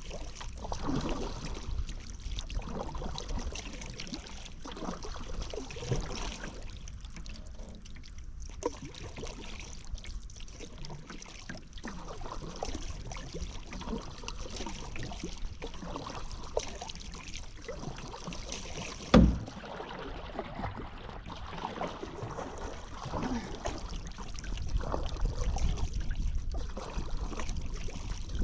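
Paddle strokes in river water: the blade dips and splashes, and water trickles off it, in an irregular rhythm. A single sharp knock comes about two-thirds of the way in, and a low rumble builds near the end.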